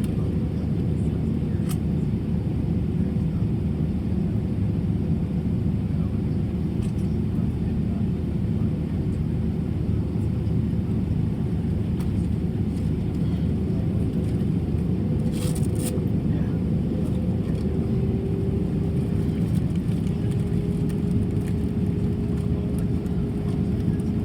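Steady low rumble inside an Airbus A320 cabin: engine and air-conditioning noise with a faint steady hum. A few light clicks and one brief sharp noise about two-thirds of the way through.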